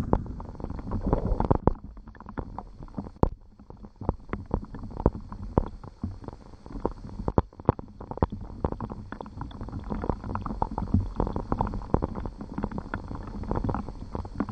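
Rain falling, with many close raindrops hitting a nearby surface as dense, irregular taps over a low rumble and a faint steady hiss.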